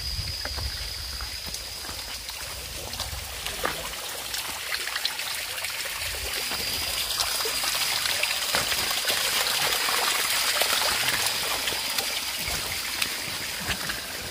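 Small forest stream flowing and trickling, growing louder through the middle, with a steady thin high-pitched whine over it and scattered light ticks.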